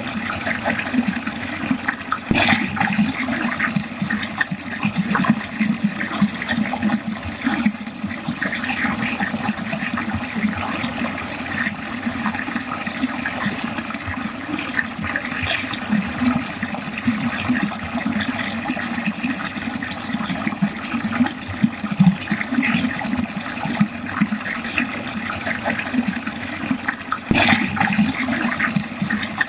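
Water flowing steadily into a drain, with continuous splashing and gurgling, and a couple of brief sharper splashes about two seconds in and near the end.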